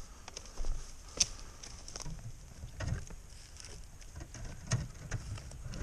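Footsteps and rustling in forest undergrowth: scattered twig snaps and clicks with a few soft low thuds.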